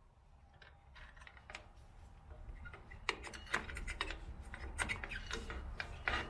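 Scattered small metallic clicks, taps and scrapes of pliers and drum-brake hardware (shoe, return spring and parking brake cable) being handled, growing busier after the first second or two, over a low steady rumble.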